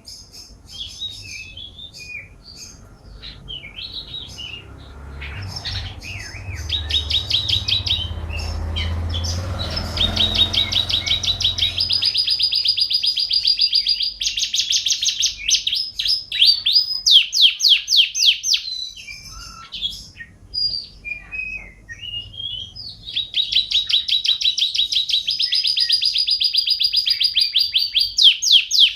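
A songbird singing in long runs of fast, repeated high trills and chattering notes, broken by short pauses. A low rumble sits under the song for several seconds in the first half.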